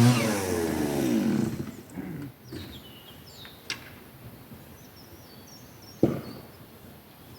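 A power saw's motor winding down, its pitch falling and fading over the first second and a half, then faint bird chirps and a single knock about six seconds in.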